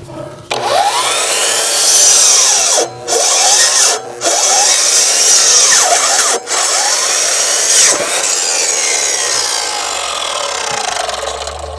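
A saw cutting through wood in steady back-and-forth strokes, with a few brief pauses.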